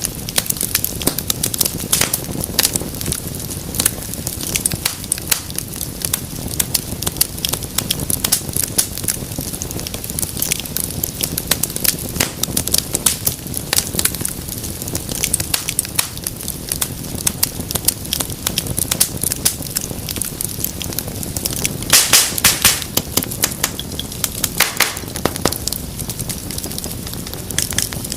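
Wood fire crackling steadily, with dense irregular pops and snaps over a low rumble of flame, and a flurry of louder pops about 22 seconds in.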